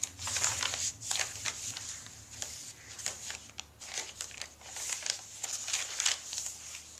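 Crispy, crunchy paper scraps, baked stiff under eco-printing pans, crinkling and crackling as they are handled in a run of irregular rustles.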